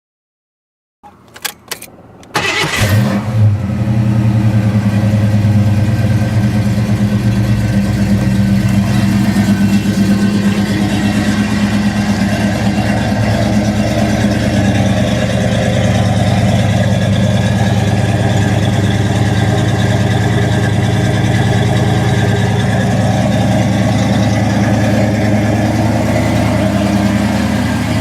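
1985 Ford Mustang GT's 5.0-litre (302) V8 with Flowmaster exhaust doing a cold start: a brief crank about a second in, then it catches and settles into a steady cold idle.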